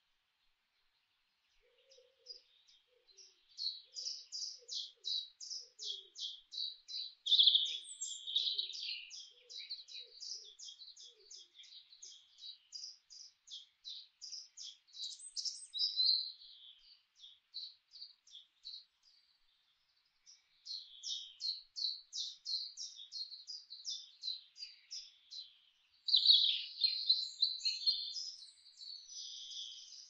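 Wild birdsong: fast runs of short, high chirps, several a second, in three long bouts broken by brief pauses.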